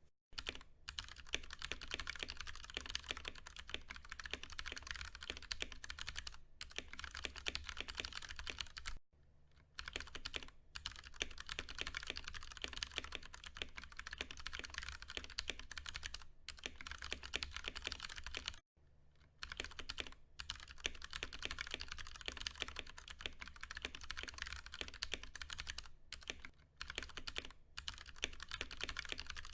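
Fast, continuous typing on a Ducky One 2 Mini mechanical keyboard with tactile, non-clicky Cherry MX Brown switches: a dense run of keystroke clicks, broken by short pauses about nine and nineteen seconds in.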